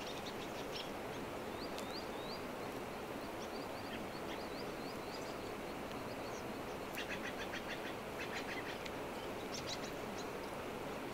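Small birds chirping over a steady outdoor hiss. A string of short rising chirps comes a couple of seconds in, and two quick runs of rapid chirps come near the end.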